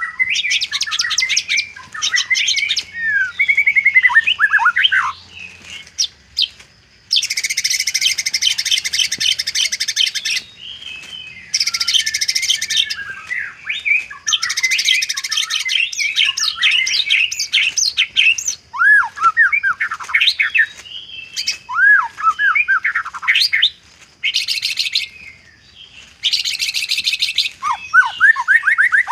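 White-rumped shama singing a varied song stuffed with imitations of other birds. Clear whistled notes that swoop up and down alternate with long, very fast buzzy trills lasting one to three seconds.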